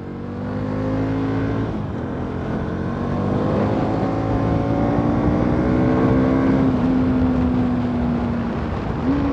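Bajaj Pulsar NS200's single-cylinder engine running under way, its note climbing slowly as the bike gathers speed, then holding steady and easing off slightly near the end.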